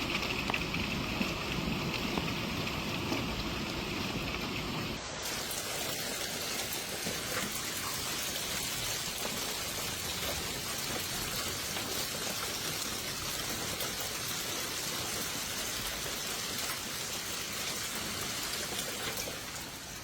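Heavy rain falling, a steady hiss without a break. About five seconds in the sound cuts from a duller stretch with more low rumble to a brighter, even rain hiss.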